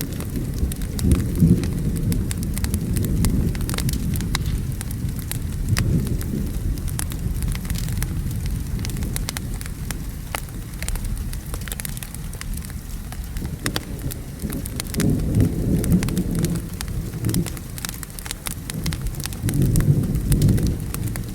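Steady rain with low rolling thunder that swells and fades several times, over a crackling wood fire giving frequent sharp pops.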